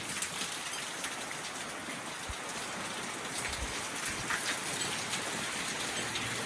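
Heavy thunderstorm rain falling steadily in strong wind: an even hiss with many sharp spatters of drops.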